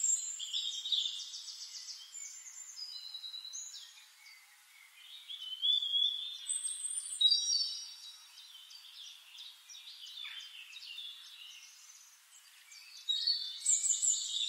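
Several birds singing together in a morning chorus: overlapping whistled notes, quick trills and chirps, with louder bursts around the middle and again near the end.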